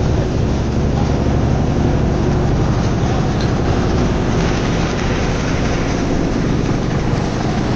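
Motorboat engine running steadily with a low drone, with water and wind noise over it.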